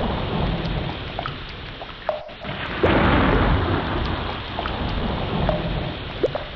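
Ocean ambience: a deep, rumbling wash of water that swells and ebbs, strongest about three seconds in, with scattered short chirping whistles of sea creatures.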